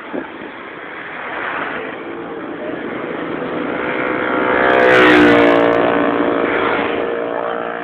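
A motorcycle engine passing close by, growing louder to a peak about five seconds in and then fading, its pitch dropping as it goes past.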